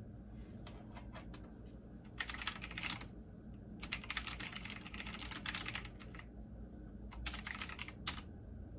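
Typing on a computer keyboard in three quick runs of keystrokes, the longest lasting about two seconds, with a few scattered keystrokes before them, over a steady low hum.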